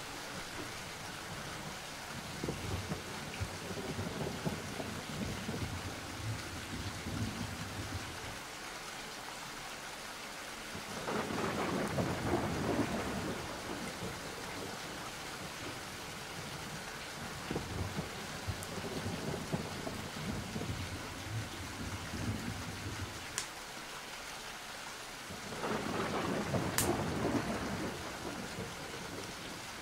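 Steady rain with rolling thunder: low rumbles, and twice a louder roll that swells up and dies away, the pattern repeating like a loop.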